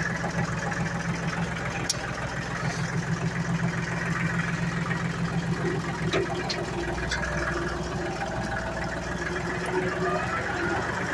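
Ford 1720 compact tractor's three-cylinder diesel engine idling steadily, with a couple of faint clicks over it.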